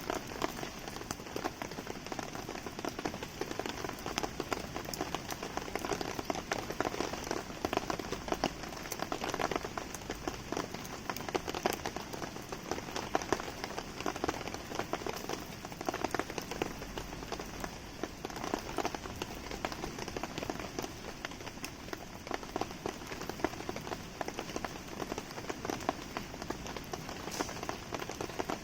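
Steady rain falling, a dense patter of many small drop taps, mixed with the light crackle of a wood campfire burning in the rain.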